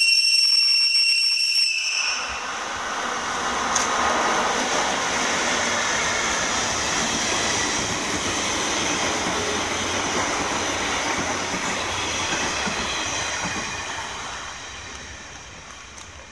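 An EF64 electric locomotive's high-pitched whistle, held on one steady note and cutting off about two seconds in. Then the locomotive and the 485-series express train it is hauling run through the station at speed, with steady wheel and rail noise that fades away near the end.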